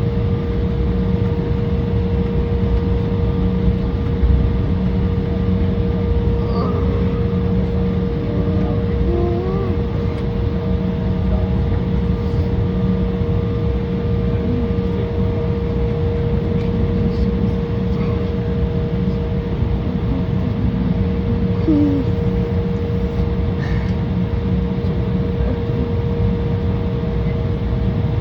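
Steady cabin noise of an Embraer 175's GE CF34-8E turbofan engines under power, heard from inside the cabin: a constant deep rumble with a steady mid-pitched tone running through it.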